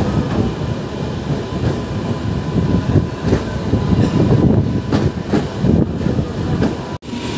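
MEMU electric passenger train running along the track: a steady rumble of wheels on rail with irregular clattering knocks. The sound drops out for an instant near the end.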